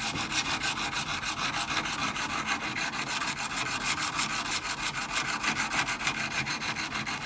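Old steel chisel rubbed back and forth on an abrasive in quick, even strokes, several a second: scraping out the gouges a grinding stone left in it.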